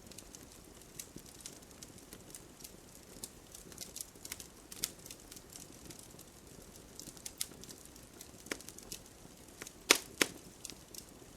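Campfire crackling: irregular sharp snaps and pops from burning wood over a soft hiss, with two loud pops in quick succession near the end.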